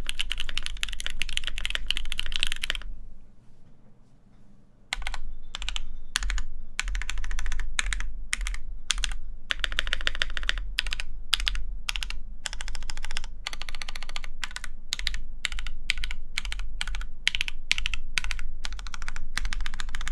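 Typing on a DriftMechanics Austin mechanical keyboard with lubed linear Alpaca switches, an FR4 plate and GMK Space Cadet keycaps: quick runs of keystroke clacks. The typing pauses for about two seconds a few seconds in, then resumes.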